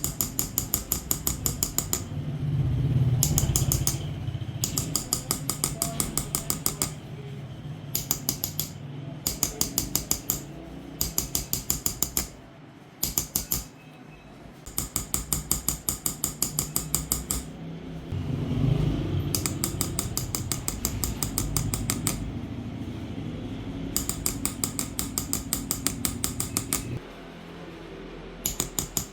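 Rapid, even tapping of a small hammer on an engraving chisel cutting patterns into a silver dish (Persian qalamzani), about six or seven taps a second in bursts of a few seconds with short pauses between. A low hum comes and goes underneath.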